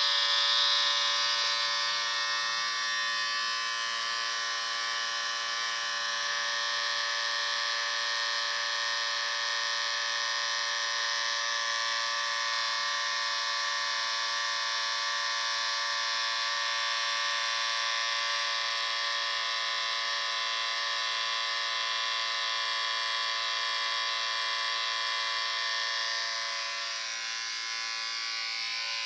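Electric shaver running continuously, a steady motor buzz with many even overtones, dropping slightly in loudness near the end.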